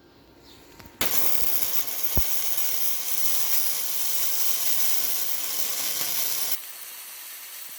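Power grinder cleaning up a fresh weld on a steel bracket: a steady grinding noise starts suddenly about a second in, and it turns quieter and thinner about 6.5 s in.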